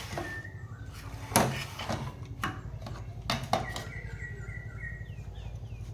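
Small birds chirping in short, repeated high notes over a steady low hum, with several sharp clicks or knocks, the loudest about a second and a half in.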